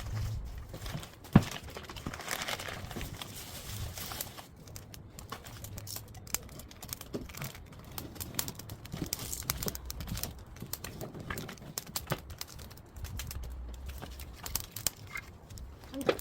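Wood fire and pork belly on a wire grill grate crackling and popping: many small sharp pops, with one loud snap about a second and a half in.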